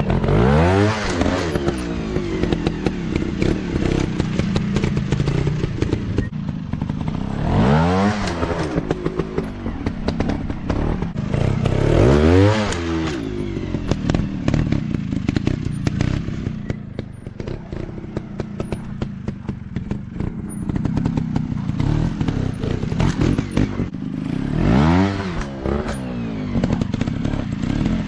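150 cc dirt bike engine revving in short bursts, the pitch climbing and dropping back about five times, with knocks and clatter in between.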